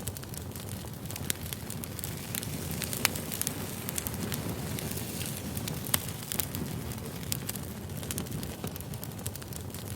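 Wood fire burning: a steady low rush of flames with frequent sharp crackles and pops, a few of them louder, about one, three and six seconds in.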